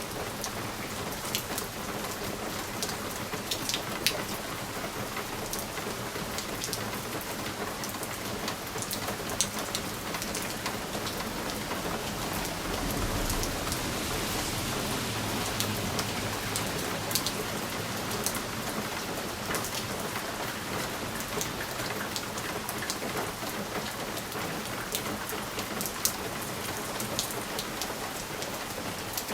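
Steady rain on a window pane: an even hiss with scattered sharp ticks of individual drops striking the glass. A soft low rumble swells and fades about halfway through.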